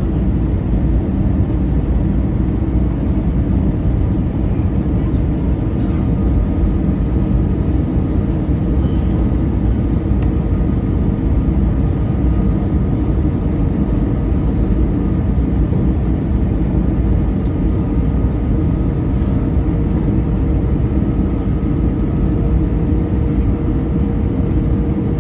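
Boeing 737-900 rolling out on the runway just after touchdown: a loud, steady rumble of engine and wheel noise with a faint steady hum, unchanging throughout.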